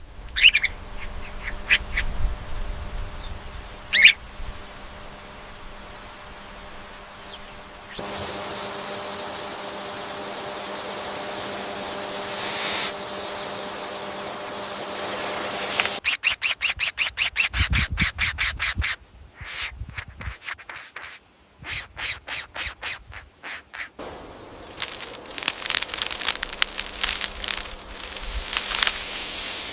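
Bird calls: a few short chirps, then a stretch of steady hiss, then fast runs of sharp repeated calls broken by short pauses, with abrupt changes between the parts.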